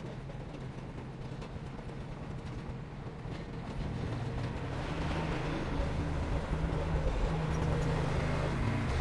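Heavy diesel engine of earthmoving machinery running with a steady low rumble, growing louder and stronger from about four seconds in.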